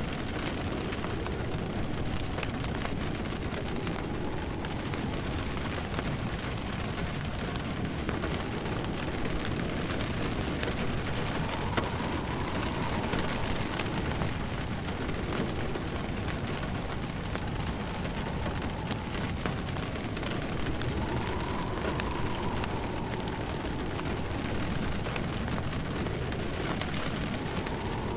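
Steady rain with a crackling wood fire, a dense even hiss dotted with small pops. A faint wind swells and fades a few times in the second half.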